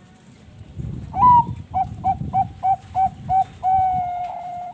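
Zebra dove (Bangkok-line perkutut) singing: one higher opening note, a run of about seven short even coos at roughly three a second, then one long held coo that stops near the end.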